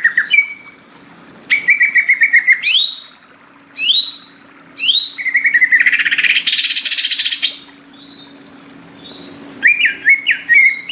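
Cucak ijo (green leafbird) singing loud, varied phrases with short pauses between them: rapid trills and quick upward-sweeping whistles, with a harsh, raspy passage in the middle.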